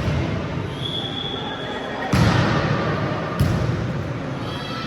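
Three sharp thuds echoing in a large indoor hall, with a short high squeak just under a second in, over a steady murmur of voices.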